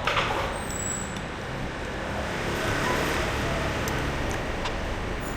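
Steady road-traffic and vehicle noise with a low rumble, heard while travelling along a road. There is a short, louder burst of noise right at the start.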